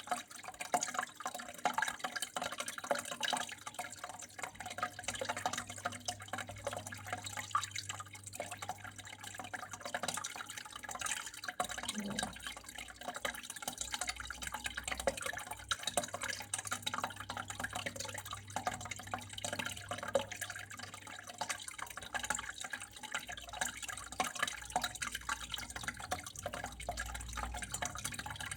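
Water flowing and dripping steadily, a constant fine patter of drops and splashes, with a low steady hum underneath.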